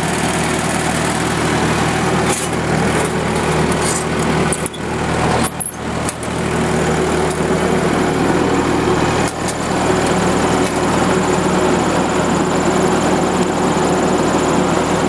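1943 Minneapolis Moline WWII anti-aircraft gun generator engine running steadily, very smooth and even. The sound briefly dips a few times around five seconds in.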